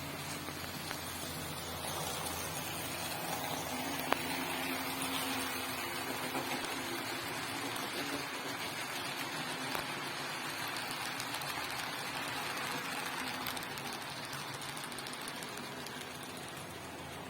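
HO-scale model CC200 locomotive running along the track pulling cement wagons: a steady motor hum with wheel noise that grows louder, then eases off as the train passes. There is a single sharp click about four seconds in.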